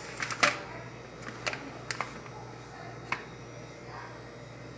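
A handful of short, sharp clicks and taps from handling a microwave oven, the loudest about half a second in and the last near three seconds in.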